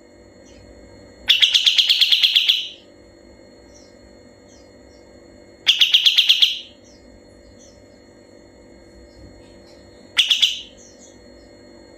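Kapas tembak songbird singing its rapid, rattling trill ('ngebren'): three bursts of fast repeated notes, each about a second long or less, a few seconds apart.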